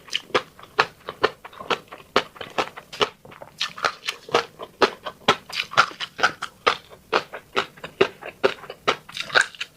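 Close-up wet chewing of fish roe: quick, irregular smacking and clicking mouth sounds, about three or four a second.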